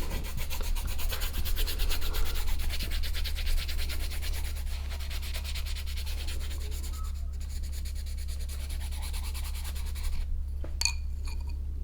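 Rapid, scratchy back-and-forth scribbling on paper, a picture being coloured in. It stops about ten seconds in.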